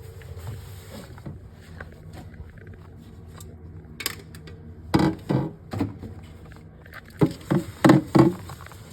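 Short knocks and clunks of objects being handled and set down, one about four seconds in and then two quick clusters, over a low steady hum.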